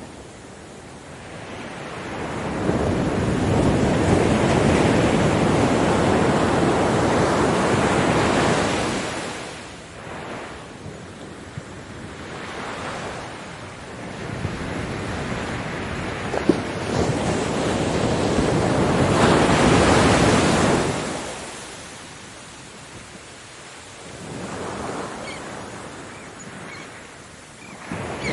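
Ocean waves breaking on a beach, the surf swelling and falling back twice in long surges, with quieter lulls between and a smaller wave near the end.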